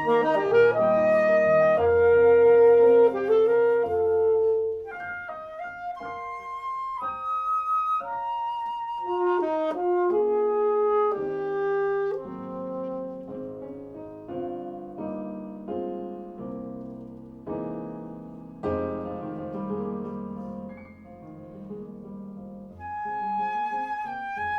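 Flute and alto saxophone playing a slow melody together over a recorded piano accompaniment, louder for the first five seconds or so and softer after.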